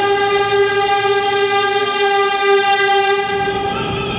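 New York City subway train's horn: one long, steady blast that stops about four seconds in, over the rumble of the train.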